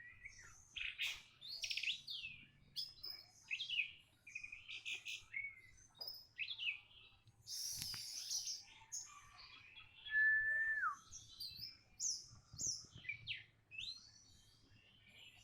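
Songbird singing in quick, varied phrases of chirps and whistled notes, with one longer, louder whistle held and then dropping in pitch about ten seconds in.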